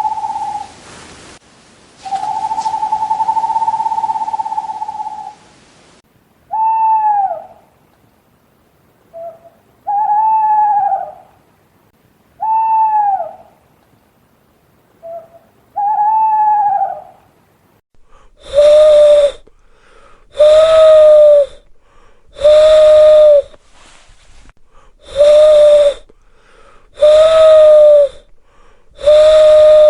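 Owl calls from several recordings in turn: first a long, steady whistled note, then a series of short downward-arching hoots about every three seconds, then louder hoots repeated evenly about every two seconds.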